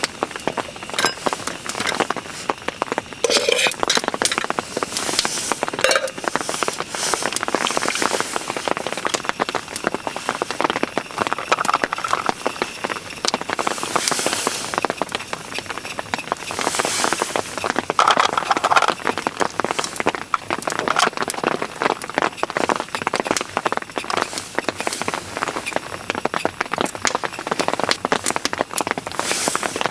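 Heavy rain falling as a dense, irregular patter of drops close by.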